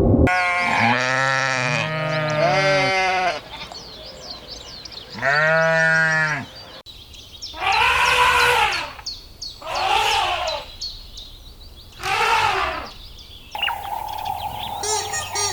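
Sheep or goats bleating, about six loud calls: two overlapping at first, one alone, then three more about two seconds apart. Faint high chirps sound between the calls, and a different steady, fast-pulsing sound cuts in near the end.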